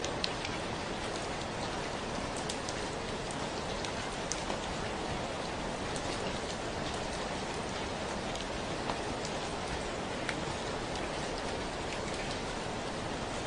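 Steady rainfall, an even hiss of rain with scattered sharper drips of single drops landing close by.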